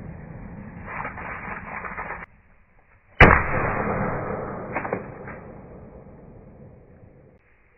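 A single shot from an Umarex TP50 .50-calibre CO2 pistol about three seconds in: one sharp crack followed by a slowly fading rustle, with two small knocks a little later.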